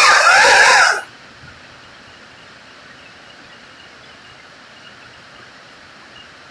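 Two-stroke chainsaw running at high revs, its pitch rising briefly, then cutting off suddenly about a second in, leaving only a faint steady hiss.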